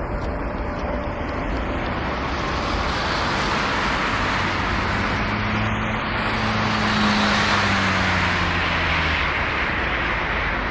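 Jet airliner engine noise, a steady rushing roar that swells about halfway through, with a low hum riding on it, then eases slightly.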